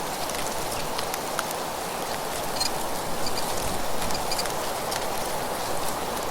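Birds chirping, short high calls several times in the second half, over a steady rushing background with scattered crackles.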